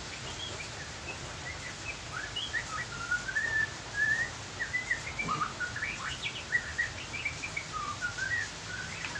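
Small songbirds chirping: a continuous run of short, quick chirps and twittering notes over a steady background hiss.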